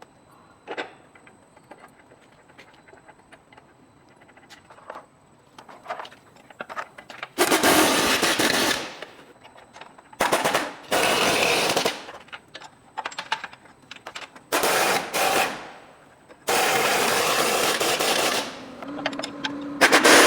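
Pneumatic impact wrench rattling in four bursts of one to two seconds each, driving bolts during assembly, with light clicks and knocks of hand work between them.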